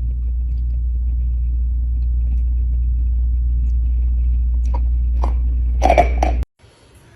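Steady low rumble of a vehicle in motion, with a few short sharp sounds near the end, then cut off abruptly.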